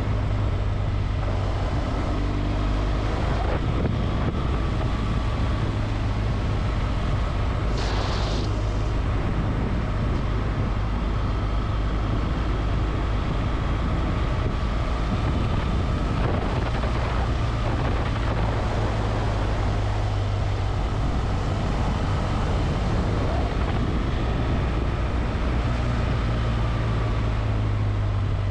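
Motorcycle engine running steadily while riding, with heavy wind noise on the microphone. A brief hiss comes about eight seconds in.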